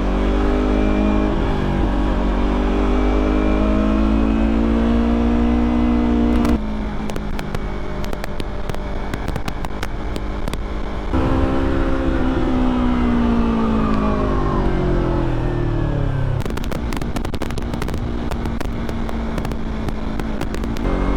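Yamaha R3's parallel-twin engine heard from the rider's seat under way, rising in pitch as it pulls. The throttle closes about six seconds in, it pulls again near eleven seconds, and then it drops in pitch in steps. Runs of sharp crackling clicks over wind noise come in twice, the second time near the end.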